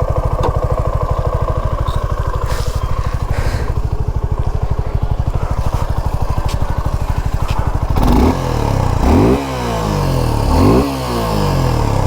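Suzuki V-Strom SX 250's 249cc single-cylinder oil-cooled engine idling with an even pulse. From about eight seconds in it is revved in three quick throttle blips, each note climbing and dropping back to idle, with a fourth starting near the end.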